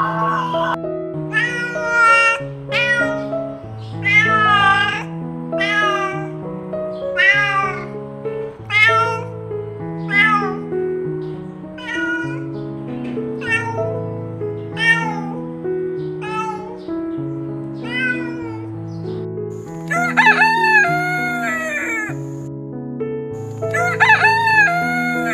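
A domestic cat meowing over and over, about once a second, over background music. Near the end a rooster crows twice, loud and long.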